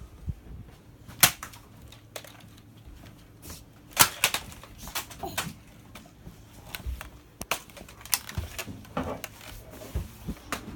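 Irregular sharp clicks and knocks, a dozen or so spread out, the loudest about four seconds in.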